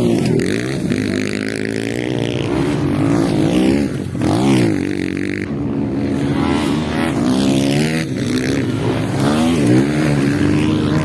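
Several motocross bike engines revving hard, their pitch repeatedly dropping and climbing back as the bikes throttle off and on around the track.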